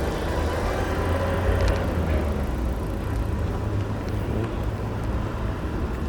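Steady low rumble of wind and road noise on the microphone while riding a bicycle, with a few faint ticks.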